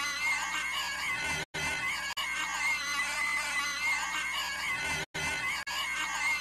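Cartoon character Candace Flynn making an inhuman, high-pitched screeching noise. The same short clip is looped over and over, cutting out briefly twice, about three and a half seconds apart.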